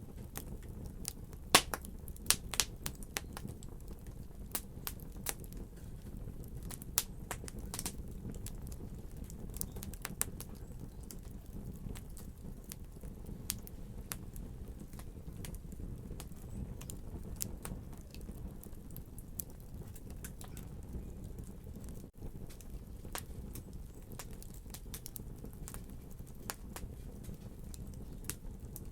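Wood fire in a fireplace crackling: irregular sharp pops and snaps over a steady low rush of the flames.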